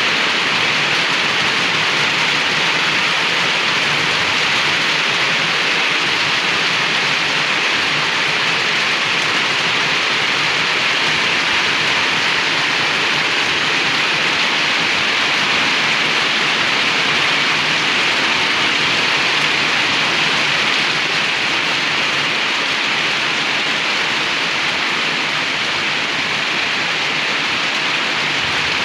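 Heavy rain pouring down steadily, a dense unbroken hiss of downpour.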